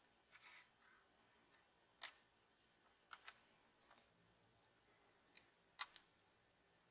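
A few faint, sharp clicks and taps, spaced unevenly a second or so apart, over near silence, the loudest about two seconds in and near the end: small objects being handled on a workbench.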